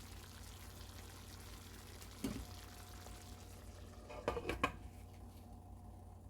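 Chicken simmering faintly in a covered pan as a metal lid is handled: one clink about two seconds in, then a few quick clinks around four and a half seconds, with a faint ringing tone between them.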